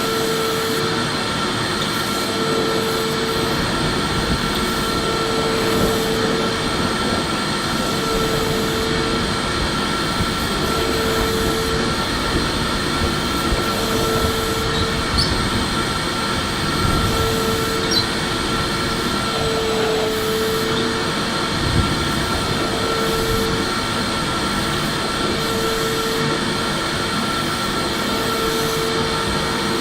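Electric vacuum cleaner running steadily with a continuous rushing of air, and a hum that comes and goes about every two and a half seconds.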